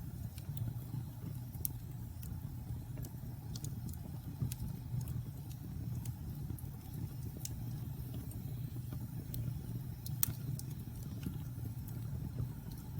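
Wood fire burning in a fireplace: a steady low rumble of the flames with sharp, irregular crackles and pops, one louder pop about ten seconds in.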